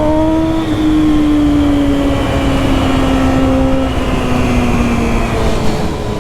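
Sport motorcycle's engine running at speed, its note rising slightly at first and then falling slowly as the bike eases off, over steady wind noise.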